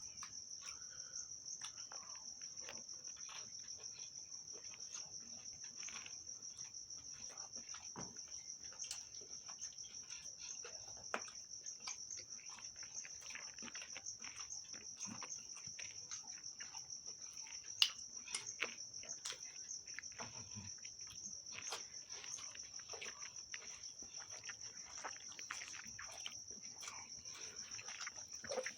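A steady, high-pitched cricket trill, with frequent small clicks and smacks of chewing and eating.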